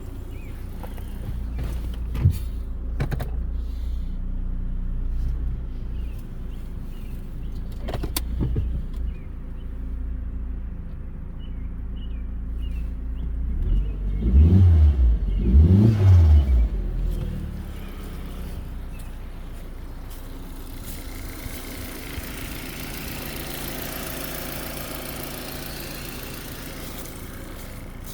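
2002 Volkswagen Jetta engine running after six months parked, revved up and back down twice about halfway through, with a few sharp clicks early on. A steady hiss comes in during the latter part.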